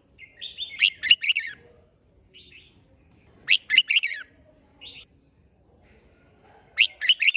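Red-whiskered bulbul singing: three short, bright, rapid song phrases about three seconds apart, with a few softer single notes between them.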